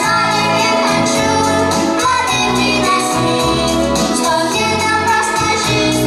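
Worship song sung by voices, with a sung melody over a steady instrumental accompaniment.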